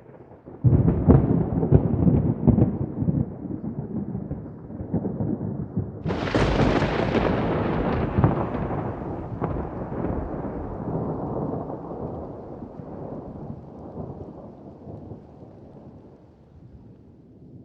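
Thunder: a crackling rumble breaks in about a second in, a sharper crack comes about six seconds in, then a long rolling rumble slowly fades away.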